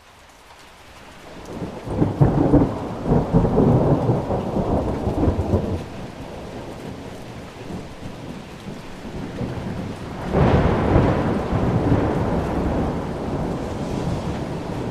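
Thunder over steady rain, the rain rising from faint at the start. A long rumble builds about two seconds in and dies away by six, then a sharper clap about ten seconds in trails off into rumbling.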